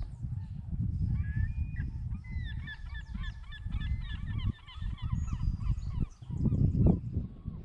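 A flock of birds calling over and over in short, rapid calls, with a gusting low rumble of wind on the microphone that swells near the end.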